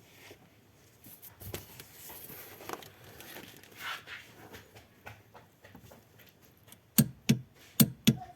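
Faint scattered handling noises, then four or five sharp knocks in quick succession near the end.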